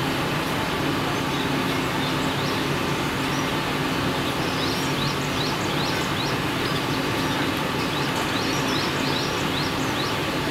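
Steady outdoor background noise, with a rapid run of short, high bird notes, each a quick upward sweep, starting about three seconds in and stopping about a second before the end.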